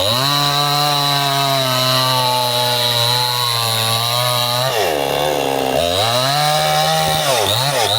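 Stihl two-stroke chainsaw running at high revs while cutting through a Bendo tree trunk. Its pitch dips and recovers twice, about five seconds in and again near the end.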